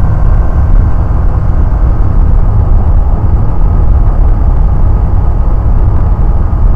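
Steady, loud cockpit drone of a light single-engine experimental airplane in cruise flight: engine, propeller and airflow running at constant power, with no change in pitch.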